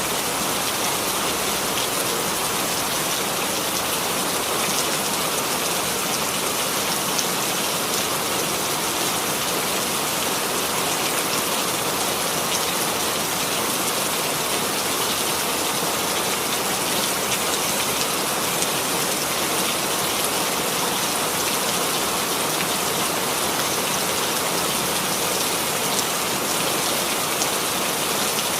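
Steady rainfall: an even hiss of rain with the patter of drops landing on a surface.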